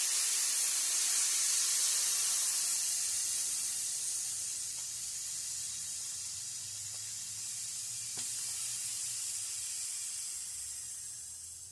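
Pressurised air hissing out of a bicycle tire through its valve as the tire is let down, loudest at first and slowly weakening as the pressure drops.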